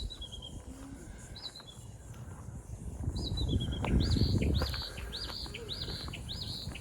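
A songbird calling repeatedly with short whistled chirps. The first few calls step down in pitch; from about halfway the bird switches to a quicker run of arched chirps, about two a second. A low rumbling noise swells beneath it, loudest about four seconds in.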